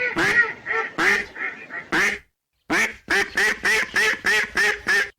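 Ducks quacking: a jumble of overlapping quacks, a short pause, then a steady run of about eight quacks at roughly three a second.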